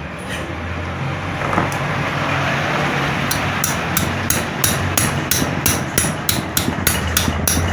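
Small hammer striking a rusted, seized casing bolt on a centrifugal water pump, metal on metal, to free it. After a few seconds of steady rushing noise, the blows come regularly at about three a second.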